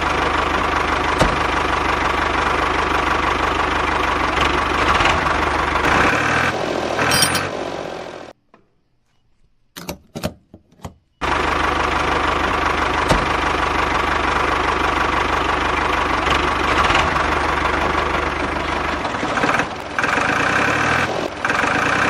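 A DIY mini tractor's small engine running steadily with a low hum. The sound cuts out abruptly about eight seconds in, a few clicks are heard in the near silence, and the same running resumes about three seconds later.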